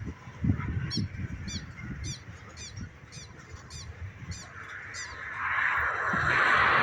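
A bird calling over and over, a short high chirp about twice a second. From about five seconds in, a loud, steady rushing noise builds up and drowns it out.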